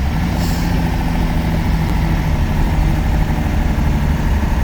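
1993 Dodge W250 Power Ram's first-generation Cummins 5.9-litre 12-valve turbo diesel running at a steady engine speed while the truck drives along, heard from inside the cab.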